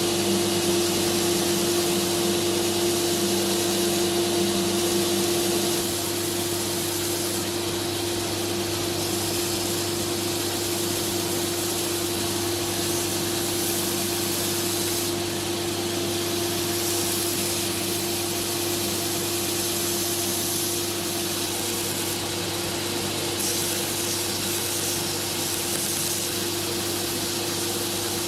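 A power tool's electric motor running steadily, with a constant hum under a loud hiss. The level drops slightly about six seconds in.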